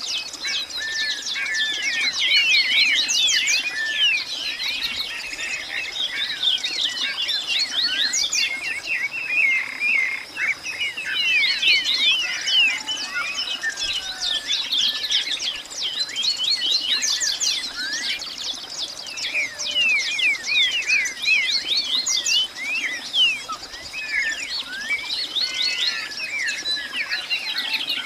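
Dense chorus of many birds chirping without pause, short quick calls overlapping one another, with a steady high thin tone running beneath.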